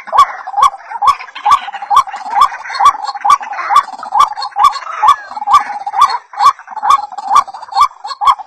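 White-breasted waterhen calls: a short rising note repeated steadily about twice a second, each with a sharp click.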